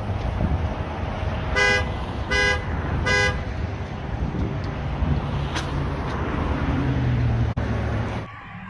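Car horn honked three short times in quick succession over steady road and engine noise, which drops away sharply near the end.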